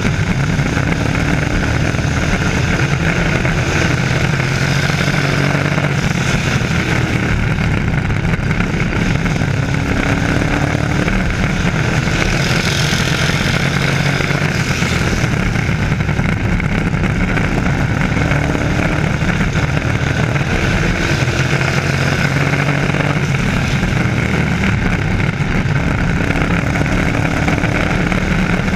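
Race trucks' engines running at racing speed around a short oval track. The sound is loud and continuous, and engine notes slide up and down every few seconds as trucks come past.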